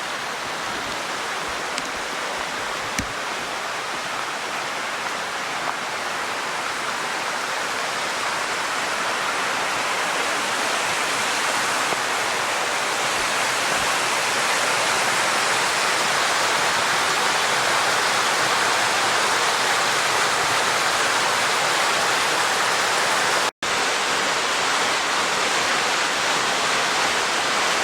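Waterfall on a creek: a steady rush of falling water that grows slowly louder, cutting out for an instant about three-quarters of the way through.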